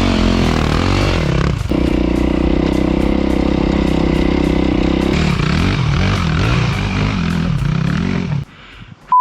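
Dirt bike engine running, its pitch rising and falling with the throttle and held steady for a few seconds in the middle; the sound stops abruptly near the end, followed by a short high beep.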